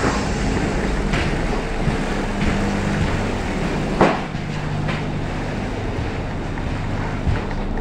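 Steady low hum inside a passenger train carriage, with a few light knocks and one sharper knock about four seconds in.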